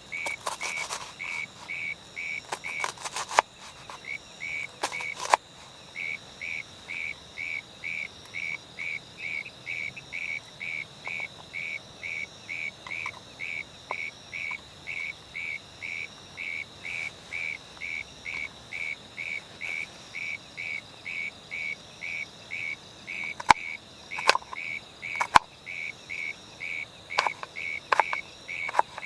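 Calling insects at the camp: a short chirp repeated steadily about two to three times a second over a continuous high trill. A few sharp clicks or taps come in the first few seconds and again near the end.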